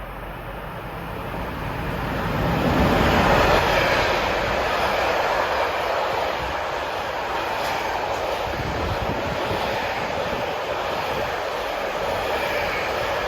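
Cargonet freight train passing close by: its noise builds to a peak about three seconds in, then holds as a steady rolling rush of wheels on rail as the wagons go by.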